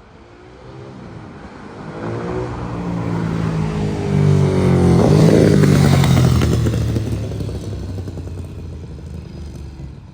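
Ducati Monster's V-twin engine with a Termignoni exhaust approaching and passing under acceleration. The engine pitch climbs as it nears, it is loudest about five seconds in, and then it fades away.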